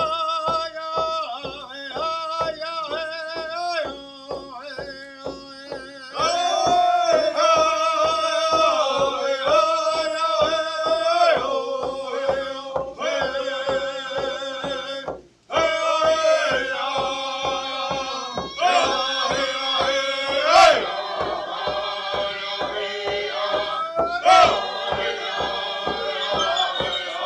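Music: men singing a chant-like song over a steady beat of about two beats a second, breaking off briefly about halfway.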